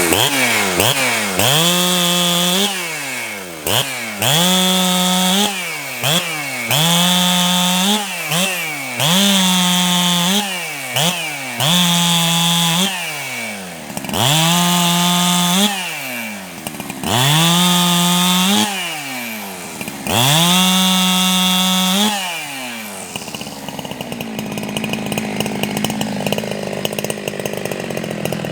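Ported Jonsered 2165 two-stroke chainsaw, with a pop-up piston, repeatedly revved to full speed while cutting wood. There are about nine bursts two to three seconds apart, each climbing to a high steady scream and then dropping off. The bursts stop about three-quarters of the way through, leaving a lower, rougher running sound.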